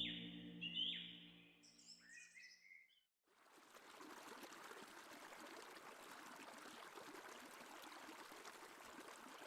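Music with sustained tones and gliding whistle-like notes fades out over the first three seconds. After a brief silence, a faint, steady rushing hiss of outdoor ambience begins and holds evenly.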